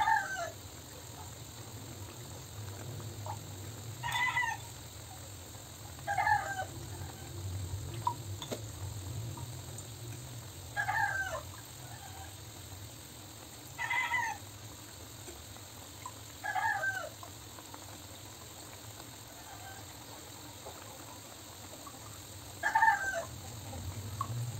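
Seven short bird calls of about half a second each, spaced two to six seconds apart, over a low steady hum.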